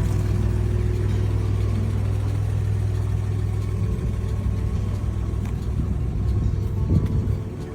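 Car engine idling steadily, with a brief rise in level near the end.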